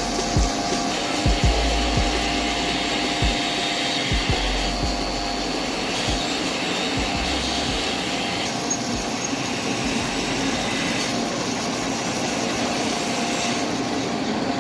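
A power tool running steadily, its tone shifting every couple of seconds, with a few short low knocks in the first half.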